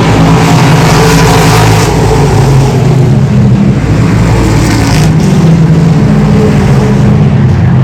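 Race car engines running hard around the track: a loud, steady drone whose pitch drifts slightly up and down.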